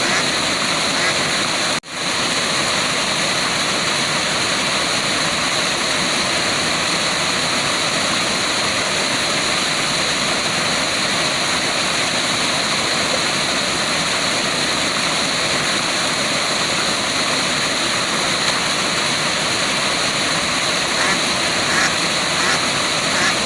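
Waterfall: steady rushing, splashing water with no change in level, cutting out for a split second about two seconds in.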